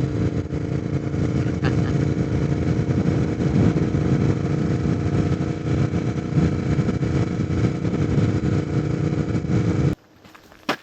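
Royal Enfield motorcycle engine running at a steady cruise on the road, with a steady drone and dense low rumble. It cuts off abruptly about ten seconds in, followed by a single faint click.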